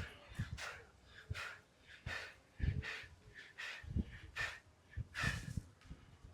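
A person breathing hard during a calisthenics set: quick, noisy breaths, about one or two a second, from heavy exertion.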